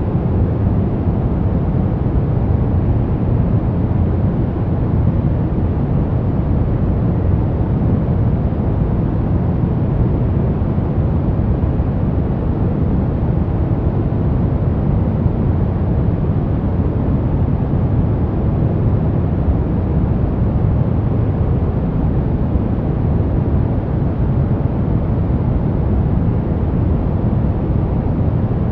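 Steady, unchanging synthetic noise weighted toward the low end, a deep rushing hiss of the kind used to mask sounds for sleep, with no rise, fall or break.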